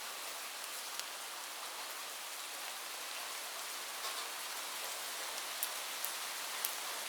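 Light rain falling steadily, a soft even hiss with scattered sharp ticks of individual drops hitting a surface.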